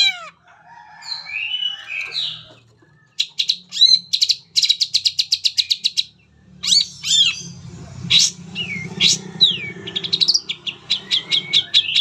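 Long-tailed shrike singing a varied song: a fast run of repeated high chirps, then sharp calls and downward-slurred whistles, and another quick run of chirps near the end.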